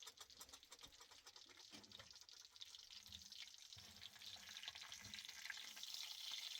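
Faint sizzle of food frying in a pan, growing a little louder toward the end, with a few soft knocks.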